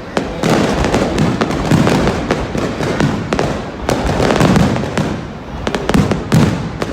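Fireworks going off without a break: overlapping deep booms mixed with many sharp cracks.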